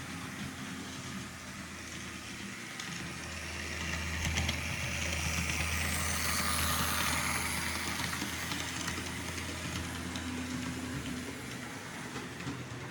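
H0-scale Märklin model train running on the layout's track, a motor hum with wheel and rail noise that swells as it passes close, loudest in the middle, then fades a little.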